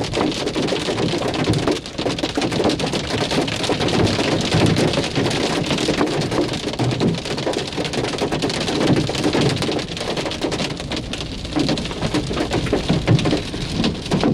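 Marble-sized hail pelting down in a severe hailstorm: a loud, dense, steady clatter of countless hailstones striking hard surfaces.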